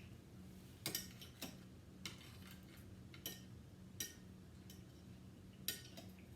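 Light clinks and taps of eating utensils against bowls and the hot pot, about eight scattered strikes, some in quick pairs, over a faint steady low hum.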